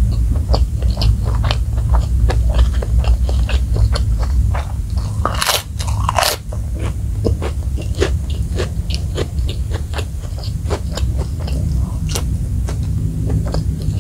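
Close-miked chewing and crunching of crispy fried chicken and fried rice, with many small wet mouth clicks and two louder crunches about five and a half and six seconds in, over a steady low hum.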